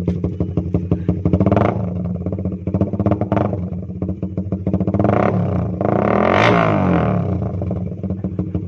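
Suzuki Raider 150 Fi's single-cylinder four-stroke engine through a Creed GP Warrior open-pipe exhaust, idling loudly and being blipped: three short throttle blips and then a longer, higher rev near the end. The owner says the open pipe pops (pugak) because the ECU and injector are still stock.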